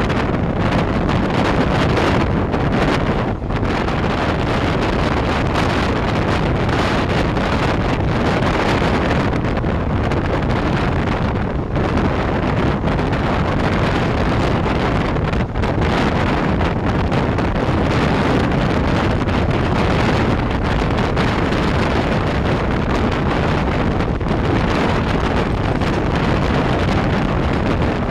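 Wind buffeting the microphone from the open doorway of a passenger train coach running at high speed, over the steady running noise of the train's wheels on the track.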